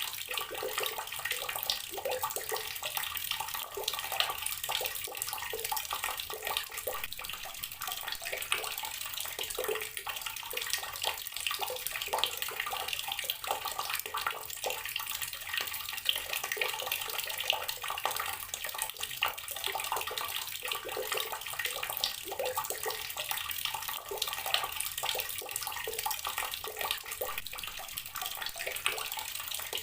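Water running steadily from an outdoor garden tap and splashing below, with a constant stream of small splashes.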